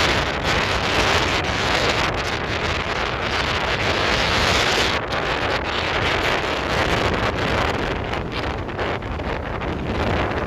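Wind blowing hard across the microphone over the rush of sea waves. The noise is strongest for the first few seconds and eases after about five seconds.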